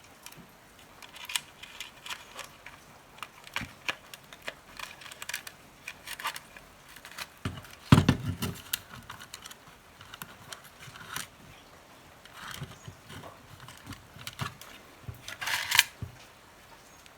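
Scattered small clicks, taps and knocks of a replacement power transformer being handled and fitted into a radio's battery compartment, with one louder knock about eight seconds in.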